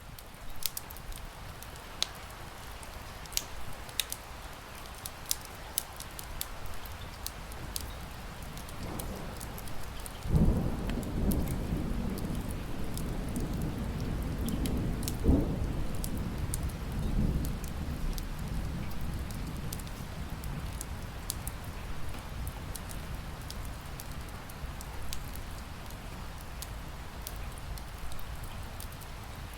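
Wood fire crackling with sharp pops over a steady hiss of rain. About ten seconds in, a long low rumble of thunder rolls for about seven seconds, loudest at its start.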